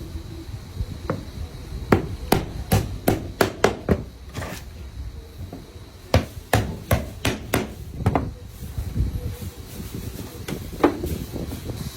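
Hammer blows on wood, coming in quick runs of several strikes with pauses and single knocks between, as planks of a wooden boat are hammered together by hand.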